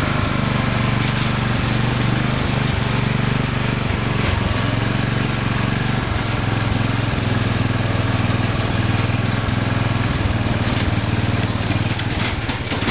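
Murray riding mower's 14.5 hp Briggs & Stratton overhead-valve single-cylinder engine running steadily through its stock muffler while the mower is driven, with a few knocks near the end.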